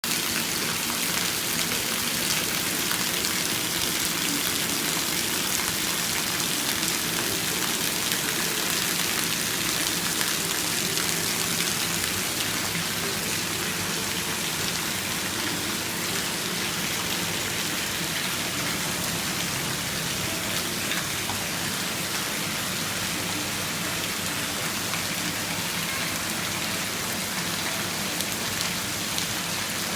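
Heavy rain falling steadily, a dense hiss of drops striking surfaces, easing a little about halfway through.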